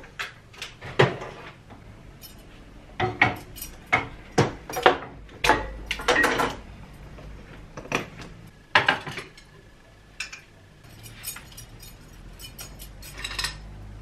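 Cookware clattering as a stovetop waffle iron and kitchen utensils are handled and set down on a gas hob, in a string of separate clinks and knocks.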